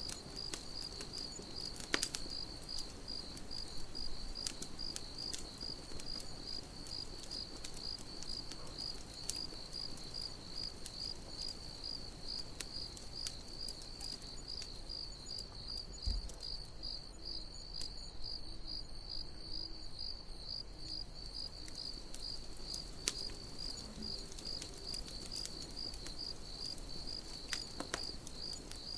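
A cricket chirping steadily in a high, evenly pulsed rhythm, with scattered pops and crackles from a campfire.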